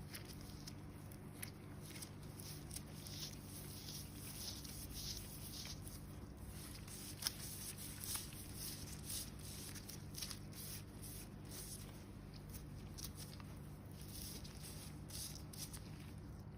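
Dead, peeling skin on feet being worked by hand, giving irregular dry crackling and scratching sounds, with one sharper click about seven seconds in, over a low steady hum.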